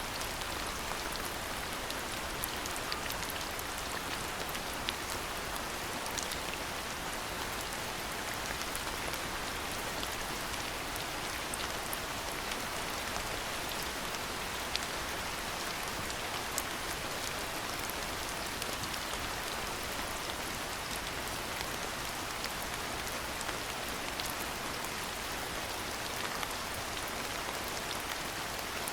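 Steady rain falling, an even hiss with scattered sharp drops ticking through it.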